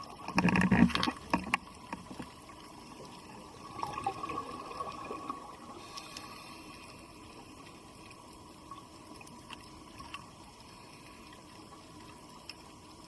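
Underwater ambience with a diver's exhaled scuba bubbles: a loud rush of bubbling just after the start and a softer one about four seconds in, then a steady low hiss.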